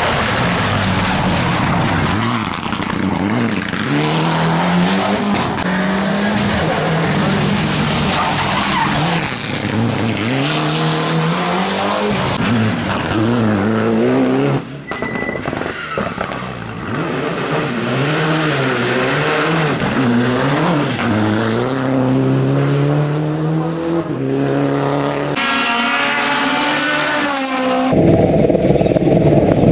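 Rally car engines at full effort on a stage, revving up and dropping back again and again through gear changes and braking. The sound changes abruptly about halfway through and twice near the end, as one pass gives way to another.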